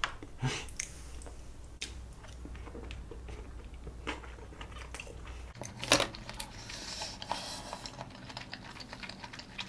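A person chewing a mouthful of sushi close to the microphone, with scattered wet mouth clicks and light knocks; a sharper click stands out about six seconds in.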